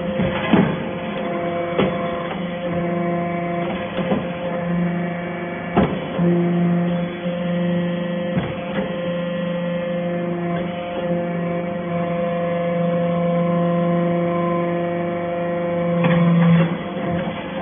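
Hydraulic metal-chip baler running: a steady machine hum whose low tone swells and eases over several seconds, with a few sharp knocks.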